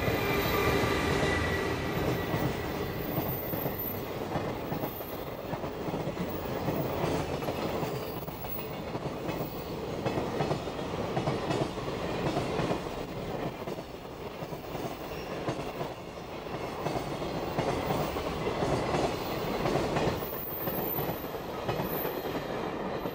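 A JR Freight EF510 electric locomotive and a long train of loaded container wagons passing close by, wheels clattering steadily over the rail joints. There are a few high steady tones in the first two seconds as the locomotive goes by.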